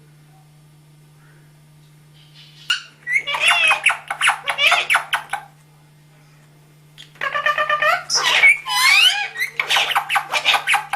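Parrot chattering in rapid high-pitched bursts with gliding, speech-like squawks: one run about three seconds in and a longer one from about seven seconds. A steady low hum lies underneath.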